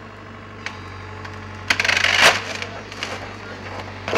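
Excavator tearing into a wood-framed building: a loud burst of splintering, crushing timber about two seconds in, with smaller cracks, over the machine's engine running steadily.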